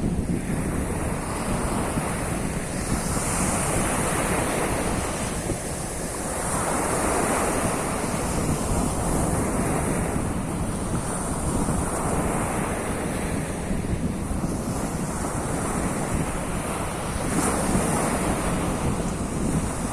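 Surf of the Sea of Azov washing onto the shore, swelling and easing every few seconds as waves come in, with wind buffeting the microphone.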